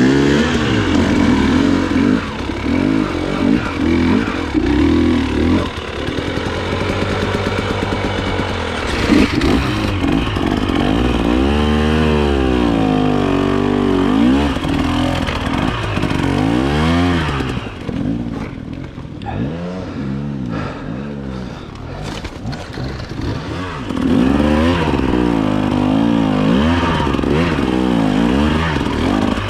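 Dirt bike engine revving up and down again and again under throttle on a rocky climb, dropping to a lower, quieter run for several seconds past the middle before picking back up.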